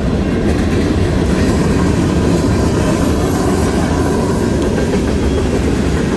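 Wind buffeting the microphone while riding a bike: a loud, steady low rumble.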